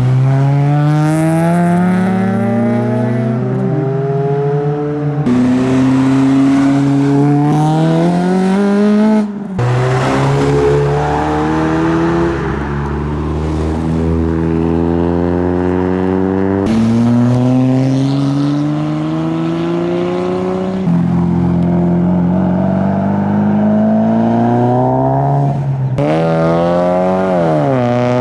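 Modified Japanese tuner cars accelerating away one after another, each engine rising steadily in pitch as it pulls. The sound breaks off abruptly several times as one run gives way to the next.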